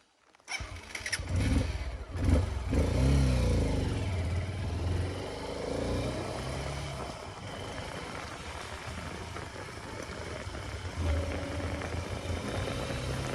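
Haojue NK 150 dirt bike's engine revving up and down over the first few seconds, then running more steadily.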